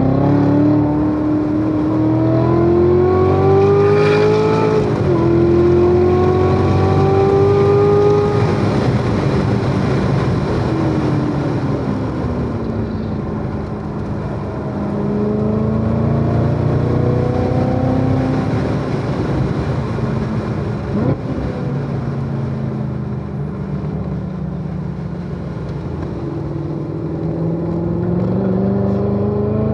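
C7 Corvette Z06's supercharged V8 under hard acceleration on track. It revs up, shifts up once about five seconds in and pulls again, then the revs fall away for a long stretch while slowing for a corner, and it climbs under power again near the end.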